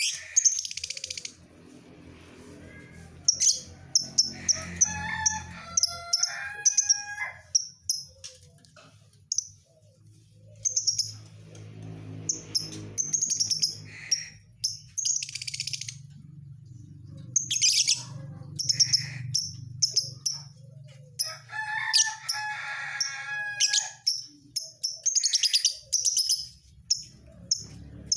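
Lovebird song: bursts of shrill, rapid chirps and chattering trills with short pauses between them, over a faint low hum.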